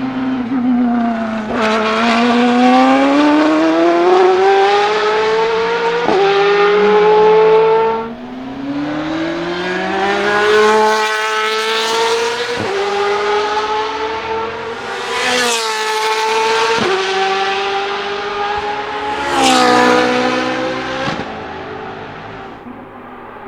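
Ferrari 458 GT2 race car's naturally aspirated 4.5-litre V8 accelerating hard on track, its pitch climbing in long sweeps broken by quick upshifts, several times over. It passes loudly twice near the middle and the end, then fades away.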